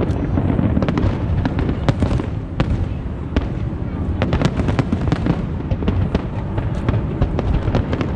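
A fireworks display with many shells bursting in quick succession: a continuous low rumble of explosions with sharp crackling reports scattered through it, several a second.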